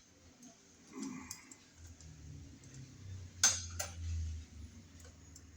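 Light metallic clinks of a small machine screw and washer being handled and started into an electrical box, with two sharp clicks close together a little past halfway.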